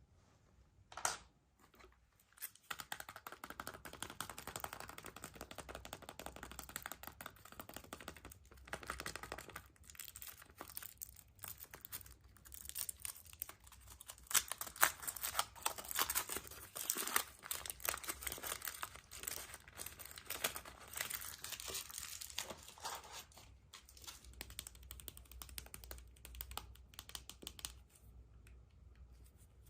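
Foil wrappers being crinkled and torn as chocolate surprise eggs are unwrapped by hand, a dense, irregular crackling that starts about two and a half seconds in and keeps on. A single sharp click or snap comes about a second in.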